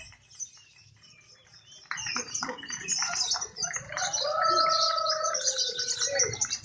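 Lovebirds chattering in dense, quick, high chirps that pick up about two seconds in after a quieter moment. From about four seconds a lower steady, slightly wavering tone is held for about two seconds under the chirping.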